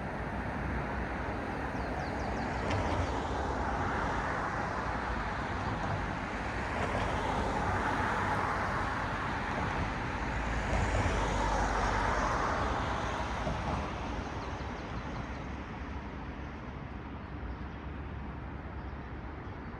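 Cars passing one after another on a road, the rush of their tyres swelling and fading with each pass. The loudest pass comes about eleven seconds in, after which it eases to a steadier traffic hum.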